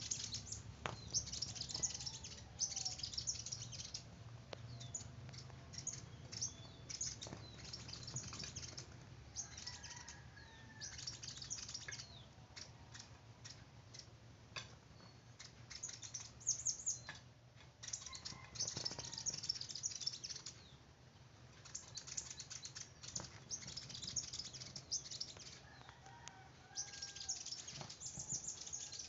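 A small bird chirping in repeated bursts of rapid, high-pitched twittering, with a few sharp clicks between them.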